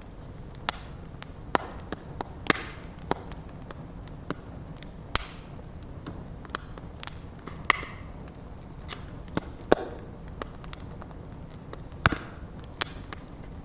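Wood fire of stacked logs crackling: irregular sharp pops and snaps, some followed by a brief hiss, over the steady low rush of the flames.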